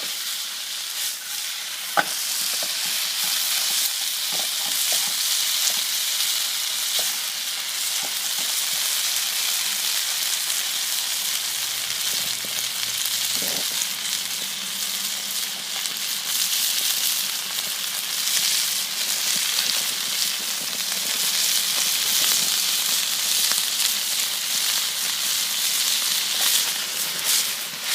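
Cornstarch-coated pork ribs sizzling steadily as they fry in hot oil in a wok, partly cooked rather than fully done, with a single sharp click about two seconds in.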